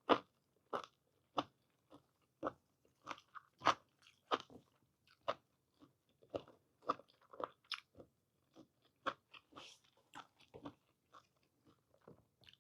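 Close-miked chewing of boiled whole squid in a mukbang, with short, irregular crunchy bites and mouth sounds about once or twice a second.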